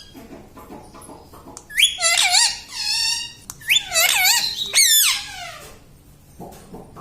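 A ring-necked parrot gives two bouts of high, squeaky, swooping calls, one about two seconds in and a longer one about four seconds in.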